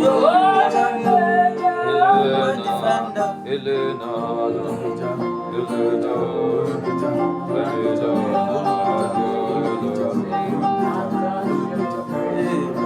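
Slow worship music played live on guitar and keyboard, with held chords and picked notes and a voice singing along near the start.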